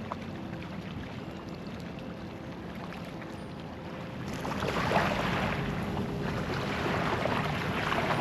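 Water rushing and swelling about four seconds in, over faint steady background music.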